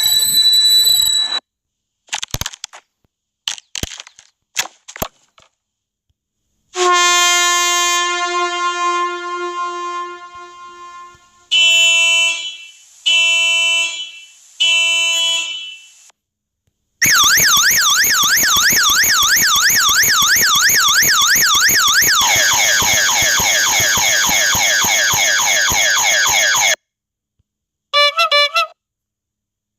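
A run of sound-effect clips: a few sharp clicks, then a long horn-like blast that fades, three short honks, and a loud electronic siren warbling fast up and down that changes to a different sweep about halfway through, with a brief chirping burst near the end.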